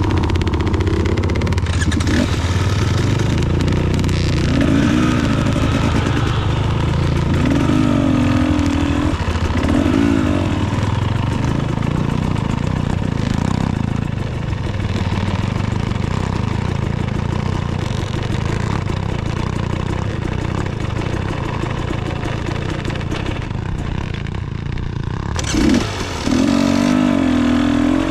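Dirt bike engine revving in short surges and falling back, over constant clattering from the bike on a rocky trail; the revs jump sharply near the end.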